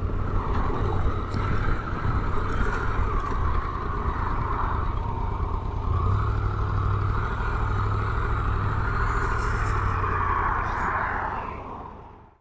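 Motorcycle engine running under way, with steady road and wind noise, fading out near the end.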